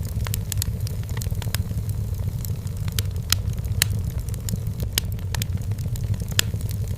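Wood fire burning in a fireplace: a steady low rumble of the flames with irregular sharp crackles and pops from the burning firewood, a few louder snaps among them.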